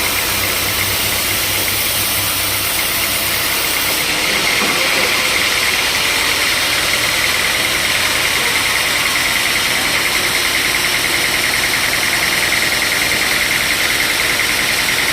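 Sawmill machinery running steadily and loudly; about four seconds in, the sound grows brighter and fuller with a high edge.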